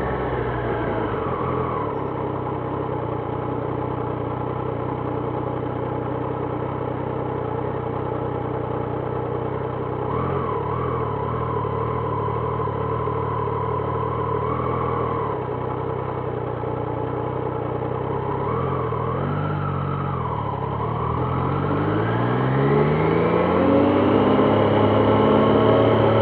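Triumph Trident 660's inline three-cylinder engine winding down at the start and idling steadily, then revving up as the motorcycle pulls away from about twenty seconds in, rising in pitch through the end.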